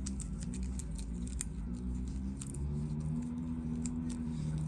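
A small gasoline engine some way off, running unevenly with its pitch wandering as it struggles to keep going; the listener thinks it has fuel problems: a carbureted engine with bad gas, just pulled out of storage. Light clicks from small tools on the bench over it.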